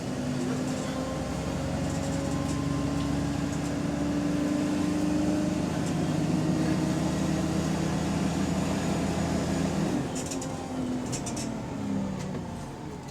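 Double-decker bus heard from on board: the engine and transmission drone and whine, rising slowly in pitch as the bus gathers speed. About ten seconds in the pitch falls away as it eases off, with a few light rattles.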